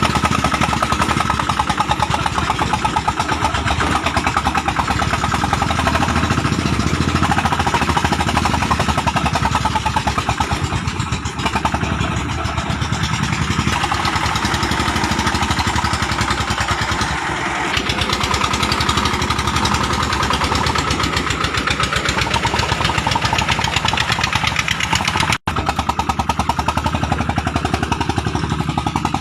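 Single-cylinder 'dompeng' diesel engine of a home-built palm-fruit hauler running with a steady, rapid knock. It cuts out for an instant about three-quarters of the way through.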